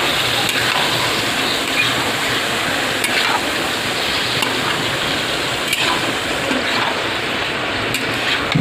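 Chicken frying in a pan: a steady sizzling hiss, with a few light clicks from stirring.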